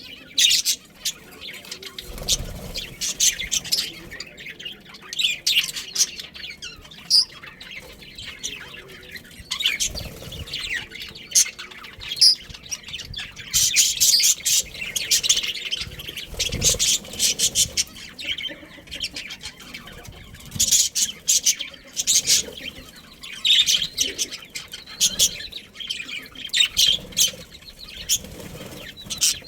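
A flock of budgerigars chirping and chattering rapidly and continuously, with a few low thuds scattered through.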